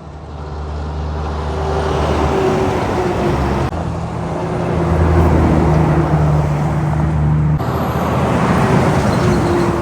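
Heavy truck engines running steadily, with loudness building as trucks approach along the road. The sound cuts abruptly twice, as one short clip gives way to the next.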